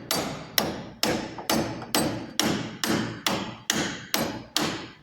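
Steady hammer blows, about two a second, each a sharp strike that dies away quickly, driving the cogwheel into the Massey Ferguson 224 baler's knotter.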